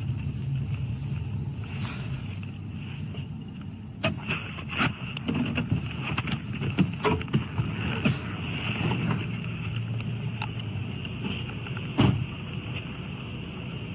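Steady road and engine noise of a moving patrol car, heard from inside the cabin, broken by several sharp knocks and thumps, the loudest about twelve seconds in.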